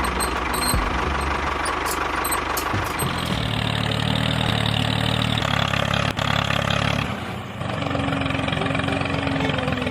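An engine running steadily, its note changing about three seconds in and again about seven and a half seconds in.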